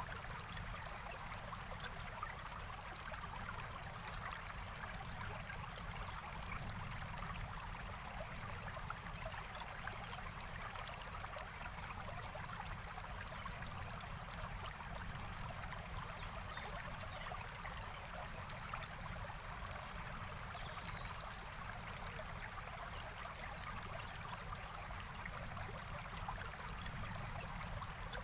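Forest stream running steadily over stones, an even rush of water with a trickle in it, and a few faint high chirps from birds.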